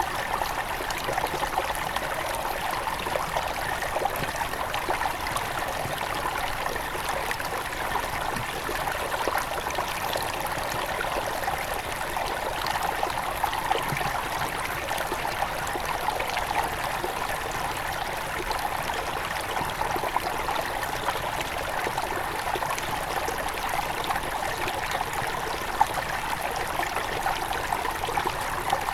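A small forest river near its source, flowing and trickling steadily over stones.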